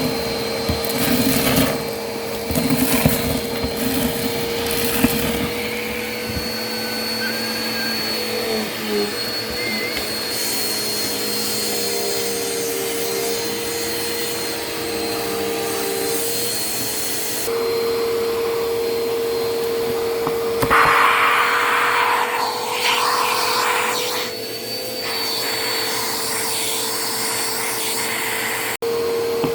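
Vacuum cleaner running with a steady whine whose pitch shifts slightly now and then, with crunching, rattling bursts as crunchy debris is sucked up, a few seconds in and again about twenty-one seconds in.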